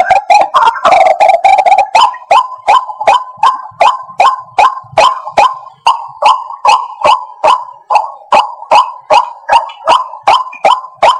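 White-breasted waterhen calling: about two seconds of dense, harsh overlapping calls, then a steady run of short, sharp notes at about three a second.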